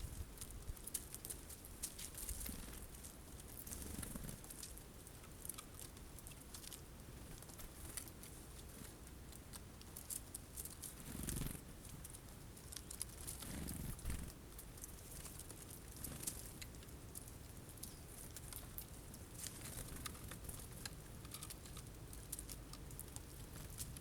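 Birds pecking at sunflower seeds on a feeder: many small sharp ticks and taps at an uneven pace, with a couple of soft low thumps about halfway through.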